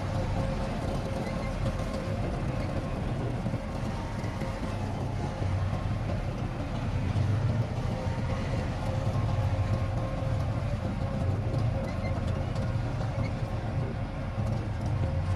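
Diesel engine of heavy earthmoving machinery running steadily, a low rumble with a steady whine above it.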